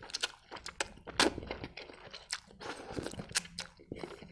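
Wet, close-miked chewing of a mouthful of instant noodles: an irregular run of sharp mouth clicks and lip smacks, the loudest a little over a second in.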